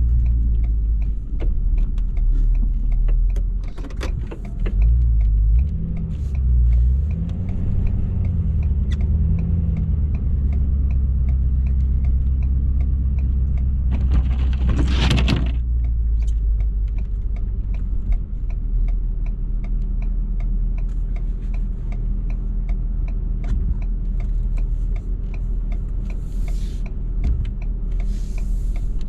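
Ford 6.7 Power Stroke V8 turbo-diesel pickup running steadily under plowing work, its note rising and falling a few times about five to nine seconds in. About halfway through, a loud rushing noise lasts about a second.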